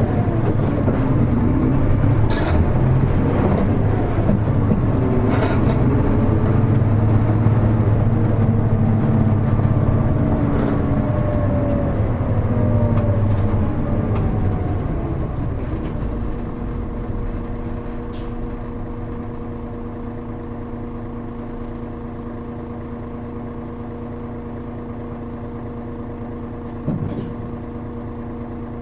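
Hino KL-HR1JNEE route bus's diesel engine heard from inside the cabin, its pitch gliding as the bus slows for a stop, then settling to a steady idle about halfway through. A short thump near the end.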